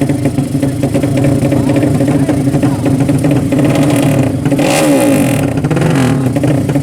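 Motorcycle engines running steadily, with one bike revving hard and passing about four seconds in, its pitch falling as it goes by.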